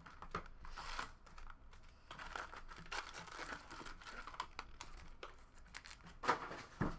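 Foil card-pack wrappers being torn open and crinkled by hand, a continuous rustling with small clicks, and two sharper crackles shortly before the end.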